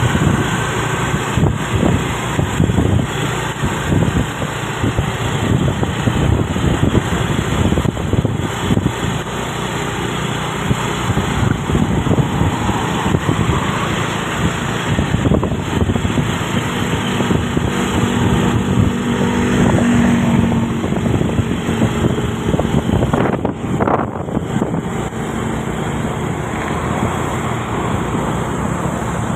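Truck on the road: its engine running steadily under the noise of the road and wind, with a faint steady hum about halfway through.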